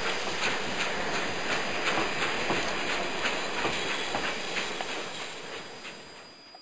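Train running sound, a steady hiss with a rhythmic clatter of about three beats a second, fading away near the end and then cutting off.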